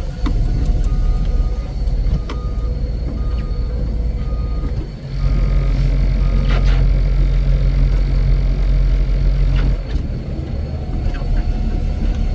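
Heavy snow-removal machine's engine running steadily, working louder for about five seconds in the middle before easing back. A backup alarm beeps repeatedly over the first few seconds.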